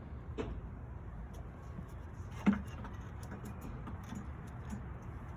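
A sharp knock about two and a half seconds in, with a lighter click near the start, over a steady low rumble.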